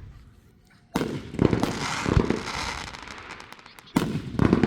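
Fireworks going off: a sharp bang about a second in, then a couple of seconds of dense crackling with deeper booms, and another bang near the end.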